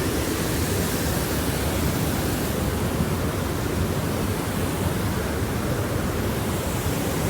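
Creek water rushing steadily, a constant even noise.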